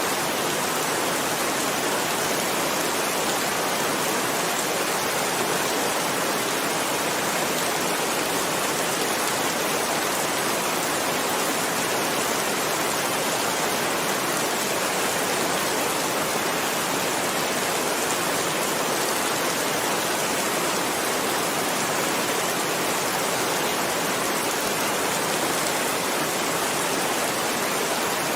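Heavy rain falling steadily, an even, unbroken hiss with no thunder or separate drops standing out.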